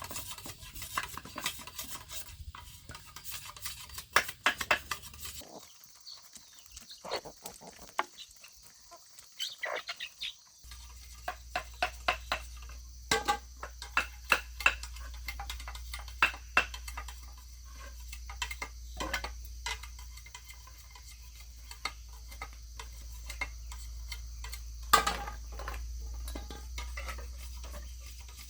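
Irregular knocks, clicks and scraping from hand work, with a steady low hum setting in partway through.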